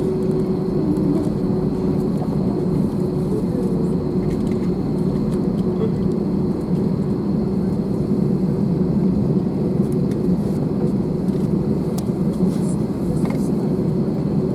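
Steady cabin noise of an Airbus A321 on the ground after landing: engines at idle and the air-conditioning hum, with a faint steady tone, as the plane taxis.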